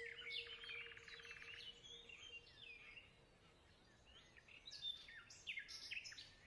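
Faint birdsong: quick chirps and whistles with a rapid trill in the first two seconds, a short lull, then another cluster of chirps near the end. A held steady tone fades away over the first two seconds.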